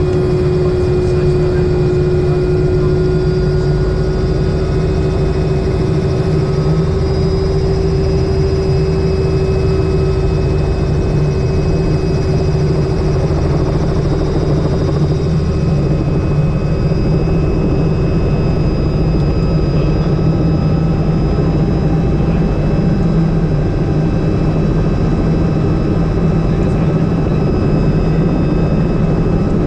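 Helicopter in flight: steady engine and rotor noise with a constant whine.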